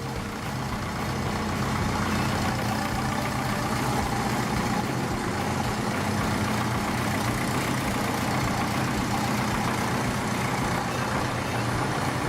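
Grey Ferguson tractor engine running steadily just after a cold start, its note picking up over the first couple of seconds and then holding even.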